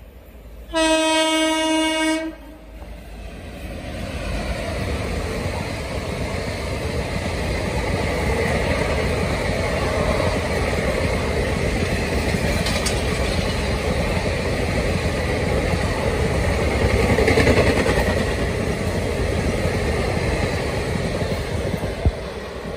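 An Indian Railways express train's locomotive sounds one horn blast lasting about a second and a half. The train then runs through at speed, with a steady rush and clatter of coach wheels on the rails. The noise builds, is loudest in the last third, and begins to ease off.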